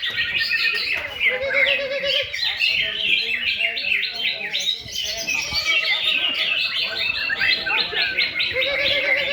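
Several caged green leafbirds (cucak ijo) singing at once in competition, a dense run of quick overlapping chirps and trills. A lower warbling trill comes in twice, about a second in and near the end.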